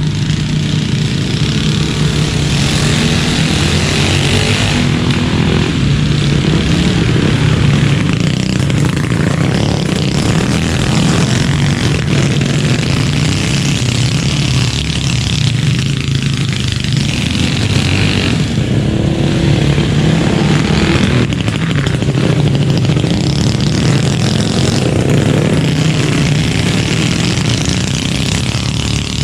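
Minibike engine running close by, with its pitch rising and falling a little as the throttle changes.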